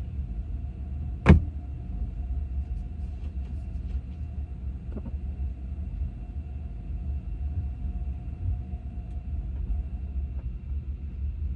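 Steady low rumble of a car on the move, with faint steady hums and a single sharp knock about a second in.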